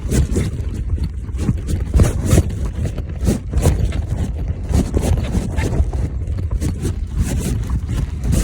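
Wind buffeting the microphone and rumble while riding a bicycle, with scattered clicks and scrapes from the bike and its handling.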